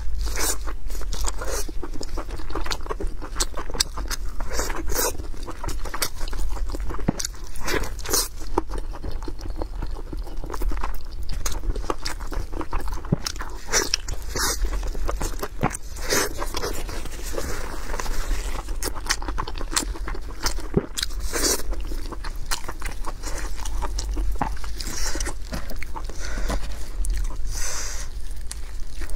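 Close-miked biting and chewing of braised pork head meat: wet mouth sounds with frequent sharp, irregular clicks. Near the end, gloved hands tear the sticky, sauced meat apart.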